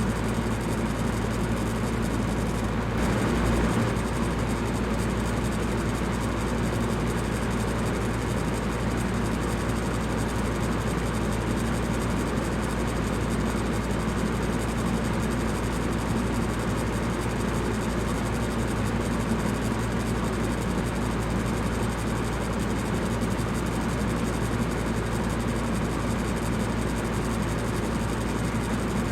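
Electric fan running steadily: an even whooshing hiss of moving air over a low, constant motor hum, with a slight swell about three seconds in.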